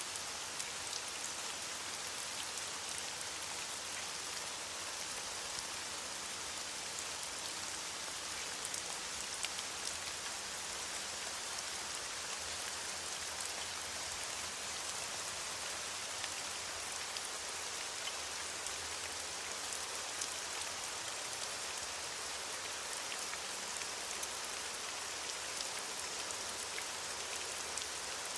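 Steady rain falling on leaves: an even hiss of rain with many small drop patters and an occasional louder drop.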